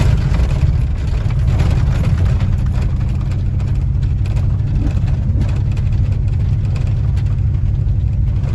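Four-wheel-drive truck's engine and road noise heard inside the cab, a steady low drone.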